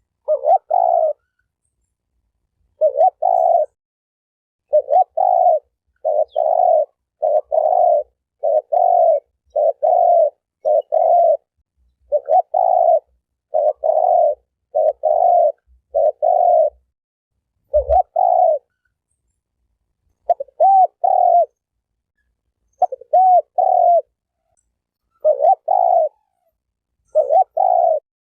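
Spotted dove (terkukur) cooing: short low coo notes repeated over and over in twos and threes, roughly one a second, with brief pauses between groups. The gaps fall to dead silence, as in an edited, looped call recording, and a soft low thump comes about eighteen seconds in.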